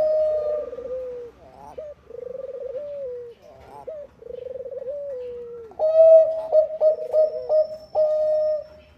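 Zebra dove of the Thai 'bangkok' type cooing. A held coo gives way to three rolling, stuttered coos that each slide downward, then about six seconds in a louder run of short and held coos follows, ending just before the close.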